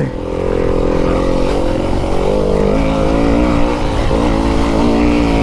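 Fantic enduro dirt bike's engine running under throttle, heard from the rider's onboard camera: the revs hold steady for about two seconds, then dip and climb again several times.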